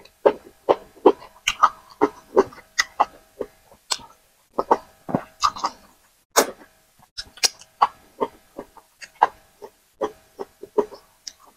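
Close-miked eating sounds of a person chewing potato fufu and vegetable soup: wet mouth smacks and chewing clicks in an irregular run of about two to three a second, with short pauses.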